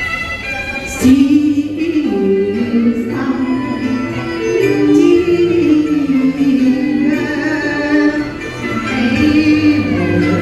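Cantonese opera song: a woman singing in the pinghou (chest-voice) style over instrumental accompaniment, the voice entering about a second in and gliding through a long ornamented melodic line.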